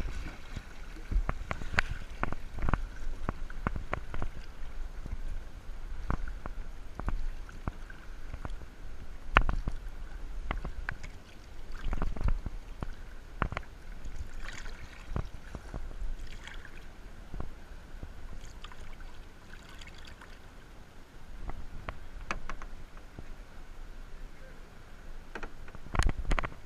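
Kayak on the sea: water splashing and sloshing against the hull as it is paddled, with many scattered knocks and clicks, a loud cluster of them near the end, and low wind rumble on the action camera's microphone.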